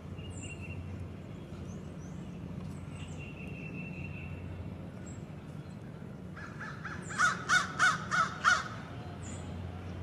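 A bird calling five times in quick succession about seven seconds in, loud calls evenly spaced about a third of a second apart. Underneath are a steady low hum and faint high chirps from small birds.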